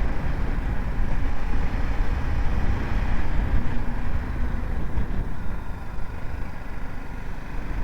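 BMW G 310 GS single-cylinder engine running while the motorcycle is ridden along, a steady low rumble that eases slightly past the middle.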